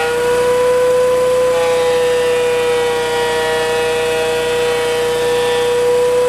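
Wood planer running steadily with a constant whine as rough-sawn lumber is dressed.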